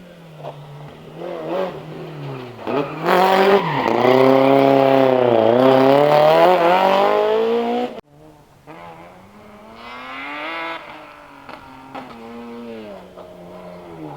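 Rally car engine revving hard, its pitch rising and falling with throttle and gear changes, loudest as it comes close. A little past halfway it cuts off abruptly, and a second rally car's engine is heard, quieter, also revving up and down.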